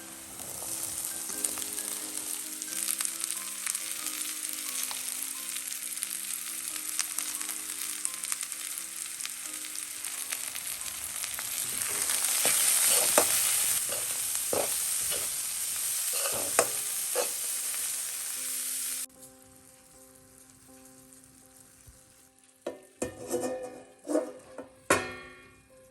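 Food sizzling as it fries in a pan, with sharp knocks and scrapes of stirring for a few seconds in the middle. The sizzle cuts off suddenly about three-quarters of the way through, leaving soft background music, with a few sharp strikes near the end.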